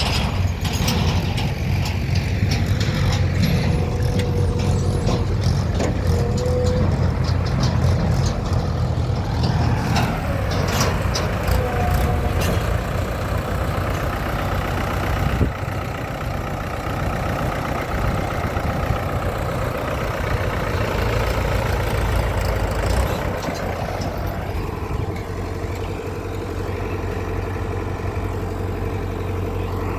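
Heavy diesel machinery running steadily, with scattered clanks and knocks through the first half and one sharp knock about halfway through.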